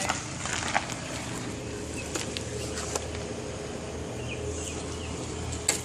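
A motor vehicle's engine running steadily, with a few light clicks.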